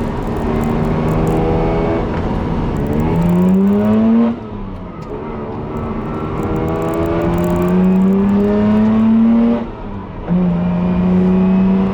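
A vehicle's engine accelerating through the gears: its pitch climbs steadily, drops sharply at a shift about four seconds in, climbs again, and shifts once more near the end.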